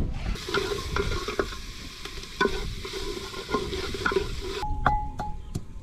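A metal ladle stirring food frying in an aluminium pot over a wood fire: a steady sizzle with scattered scrapes and clinks of the ladle against the pot. Plucked-string music comes in near the end.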